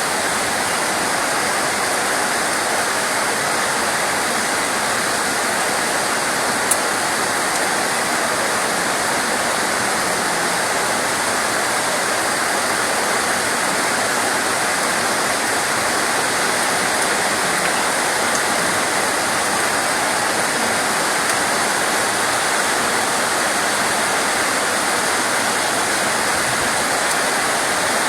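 Steady rain: a dense, even hiss of falling water that does not change. One short click about seven seconds in.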